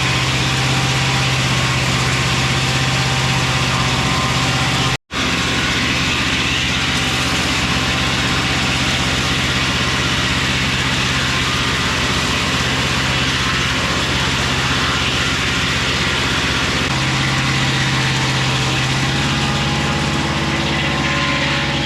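Engine of a Mobile Dimension circular-blade sawmill running steadily, broken by a split-second gap of silence about five seconds in; its hum steps slightly higher and stronger about seventeen seconds in.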